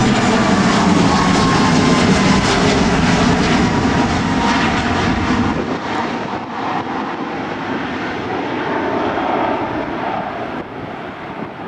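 Jet airliner taking off and passing: a loud engine roar with a whine that slides down in pitch as it goes by. The sound fades through the second half.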